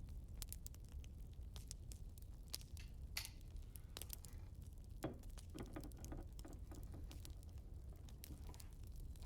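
Wood fire crackling: irregular small pops and snaps over a low steady rumble, with a short scratchy sound about five seconds in.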